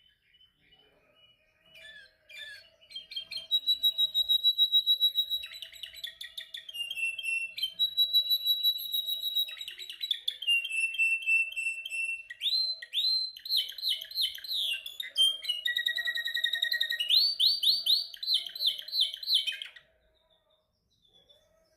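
A canary singing a long song of fast trills and rapidly repeated high notes, some phrases sweeping down in pitch. It starts softly, grows loud about two seconds in, and stops shortly before the end.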